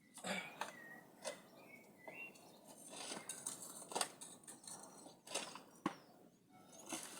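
Scattered light clicks and knocks, as of things being handled, with a few faint bird chirps between them.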